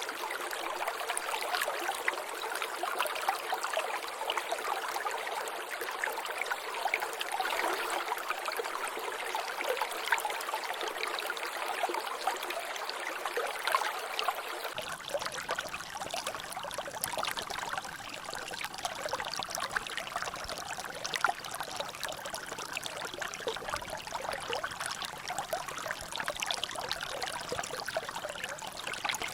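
Water trickling and dripping in a small natural drainage, a steady dense patter of small drops and splashes. About halfway through, the sound abruptly changes as a low rumble of flowing water joins in.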